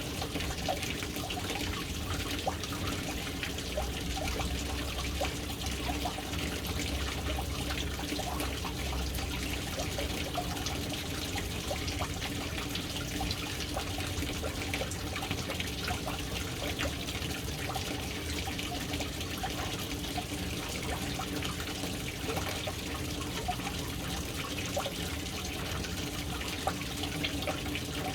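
Water falling steadily from the inlet into a household water storage tank, a continuous splashing trickle on the water surface.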